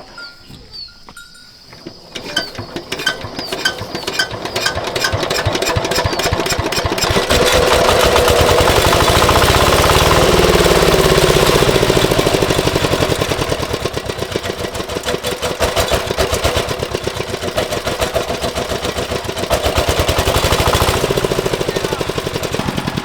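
Small diesel engine being hand-cranked and catching: slow, evenly spaced beats about two seconds in quicken as it fires, then it runs loud with a fast, steady knock. It revs up, drops back about halfway through, and picks up again near the end.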